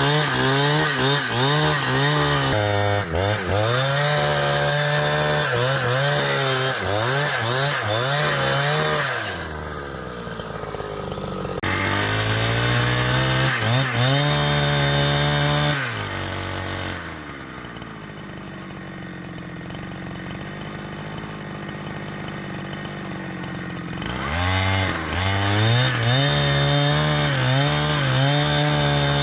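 Chainsaw cutting wood, its engine at high revs with the pitch wavering as the chain bites and bogs under load. It drops back to idle twice, briefly about a third of the way in and for several seconds past the middle, before revving up and cutting again.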